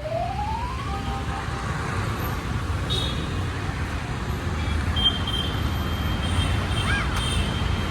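Road traffic rumbling steadily, with a short rising tone in the first second.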